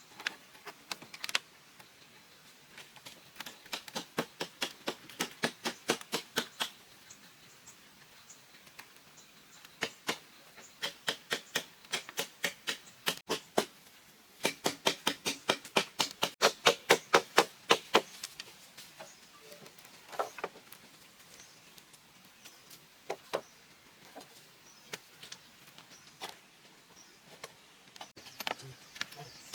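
Rapid runs of sharp knocks, about four a second, in three bursts with the loudest near the middle and a few single knocks after: a tool striking bamboo, chopping or hammering during bamboo construction.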